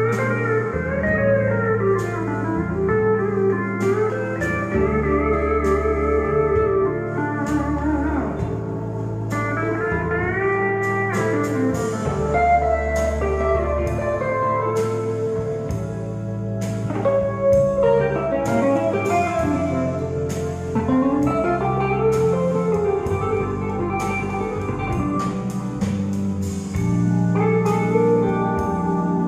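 Instrumental break of a slow blues song: a slide guitar plays gliding lead lines over sustained bass notes and a drum beat.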